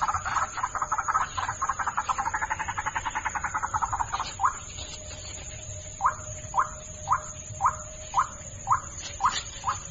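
White-breasted waterhen calling: a fast, even run of croaking notes that dies away about four seconds in. It gives way to single short upslurred notes repeated about twice a second.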